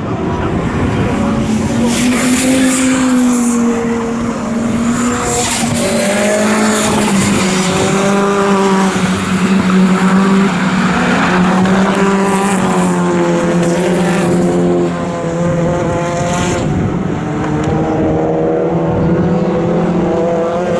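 Racing car engines running hard on track, their pitch repeatedly climbing under acceleration and dropping at gear changes and braking.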